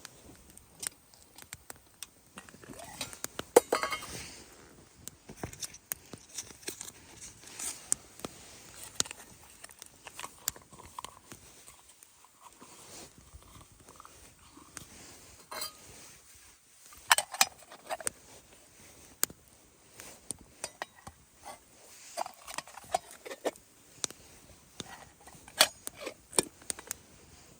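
Metal camp cookware and utensils being handled: irregular clinks and knocks, with the busiest handling about four seconds in and again around seventeen seconds in.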